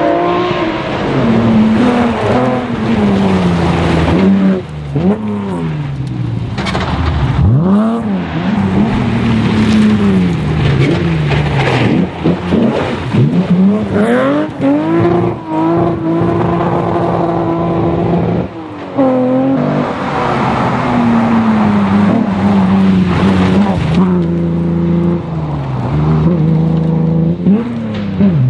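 Datsun 240Z rally car's engine revving hard on a gravel stage, the pitch climbing through the gears and dropping sharply at each shift or lift, over and over as the car drives by.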